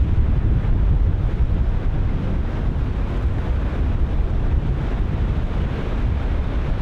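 Ocean surf breaking and washing in continuously, with heavy wind buffeting the microphone.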